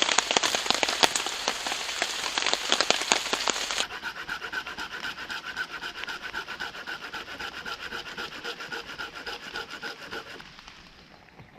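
Heavy rain pattering. About four seconds in it gives way abruptly to a folding pruning saw cutting dead wood in steady rhythmic strokes, which fade away near the end.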